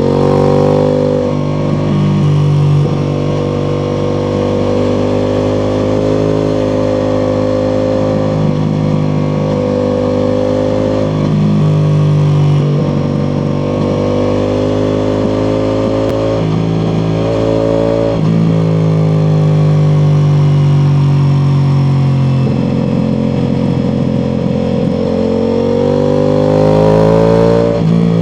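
Ducati Multistrada V4 Pikes Peak's V4 engine, with an Akrapovič exhaust, pulling through the gears. Its pitch climbs steadily and then drops sharply at each change, several times over, with a short easing off before the last pull.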